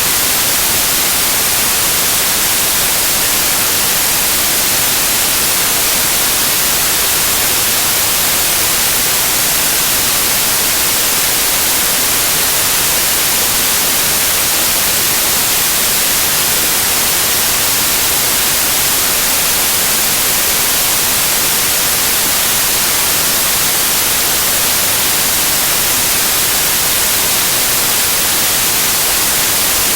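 Loud, steady white noise: an even hiss, brightest in the high end, that never changes.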